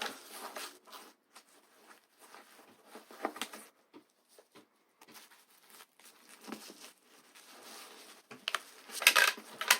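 Soft rustling and light taps of disposable pull-up training pants being handled and set in place, with a louder burst of rustling near the end.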